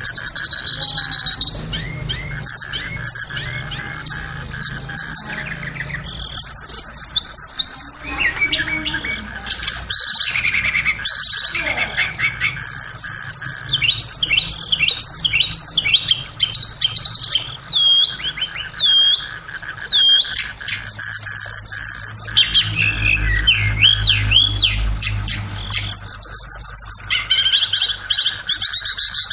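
Tledekan (flowerpecker) song recording used as a masteran training track: a dense run of high, fast chirps, short twittering trills and sharp calls, with barely a pause, over a faint steady hum.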